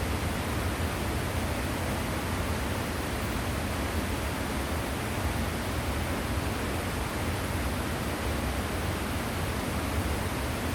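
Waterfall water pouring and splashing in a steady, even rush.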